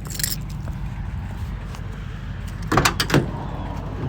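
Truck door being opened: a short rattle at the start, then a few sharp latch clacks about three seconds in, over a steady low rumble.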